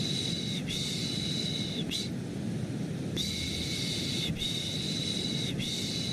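Baby-sleep shushing: a soft 'shh' repeated in sets of three, each about a second long. A set ends about two seconds in, a pause of about a second follows, and a new set of three begins. Under it runs a steady, deep white-noise rush.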